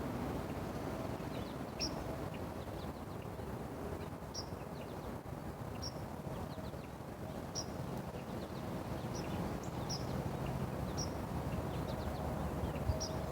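A small bird chirping: short high single chirps repeated about once every second or two, over a steady low outdoor rumble.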